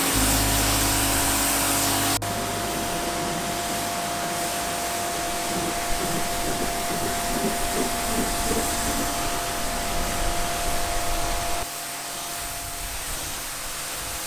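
Pressure washer running, a steady hiss of spraying water over a steady motor tone. The sound changes abruptly about two seconds in and again near the end.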